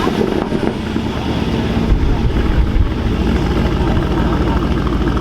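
A car engine running steadily, close by, with a fast even beat of firing pulses low down.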